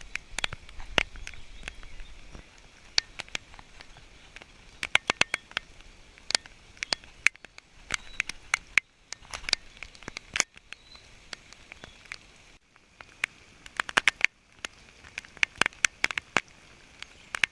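Raindrops striking close to the microphone as sharp, irregular ticks over a faint hiss of rain.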